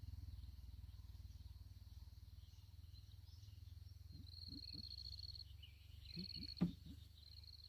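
Insects trilling high and thin in a few short runs over a low steady rumble, with some soft thuds and one sharp knock about six and a half seconds in.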